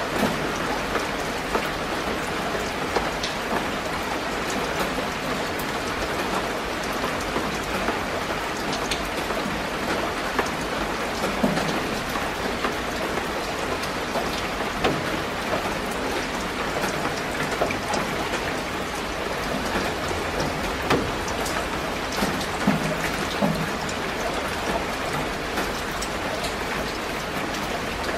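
Steady rain falling on garden foliage: an even patter with many scattered sharper drops striking leaves.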